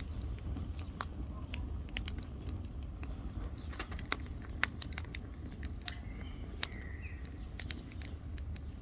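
Wood campfire crackling, with irregular sharp pops over a steady low rumble. A bird sings twice, a high whistle that drops and then holds, about a second in and again around five seconds.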